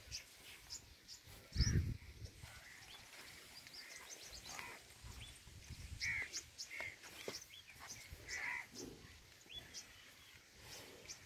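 Outdoor background with birds chirping on and off, and one short low thump about two seconds in.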